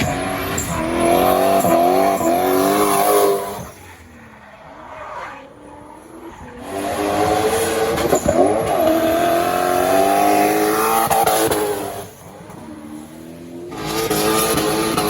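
Turbocharged V8 engine of a BMW E30 drift car revving hard, its pitch rising and falling with the throttle, with tyres squealing. The engine sound drops away for a couple of seconds twice, about four seconds in and again near twelve seconds, then comes back loud.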